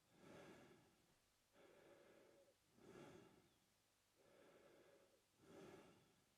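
A man breathing slowly through his mouth, quietly. There are about three full breaths, each a softer, longer draw followed by a louder, shorter one, in a steady rhythm of roughly one breath every two and a half seconds.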